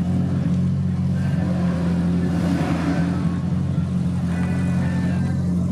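Car engine and exhaust rumbling steadily as a car pulls away, with the sound swelling briefly about two and a half seconds in.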